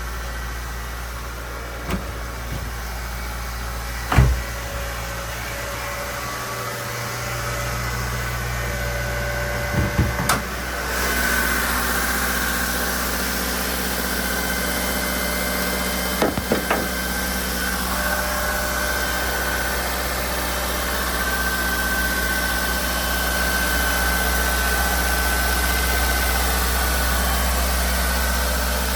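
Mitsubishi Lancer CS2 engine idling steadily after a cold start. Several sharp clicks or knocks come through, the loudest about four seconds in. From about eleven seconds in the sound is a little louder and a thin high whine appears.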